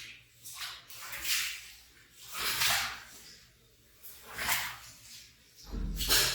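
Wet rug being worked by hand in repeated swishing strokes, about five, spaced a second or two apart, water squishing out of the pile; the last stroke, near the end, is the loudest and heaviest.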